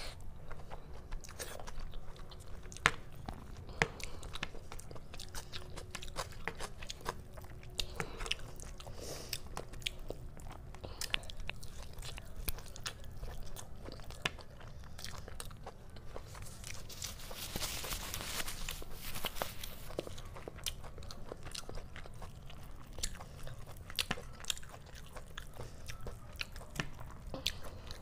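Close-miked chewing and wet mouth sounds of a person eating chicken curry and rice by hand, a steady run of small clicks and smacks, with the squelch of fingers pulling curried chicken leg meat off the bone.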